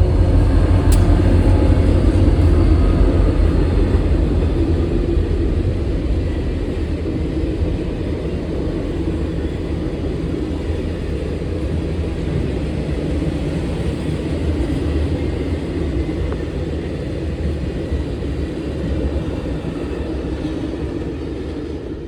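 A passing train's low, steady rumble, loudest at first and slowly easing off, with a single click about a second in.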